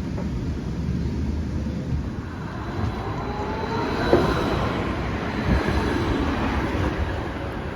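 Edinburgh tram, a CAF Urbos 3, running along the line, heard from inside the car: a steady low rumble with a faint rising electric whine about three to four seconds in and a short knock just after.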